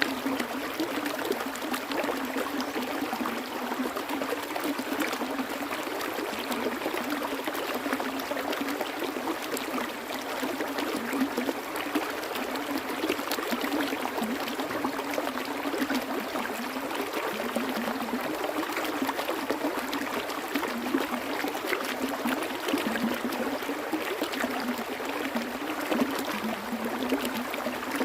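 Water flowing and trickling over rocks in a small stream, a steady babble with small gurgles and splashes.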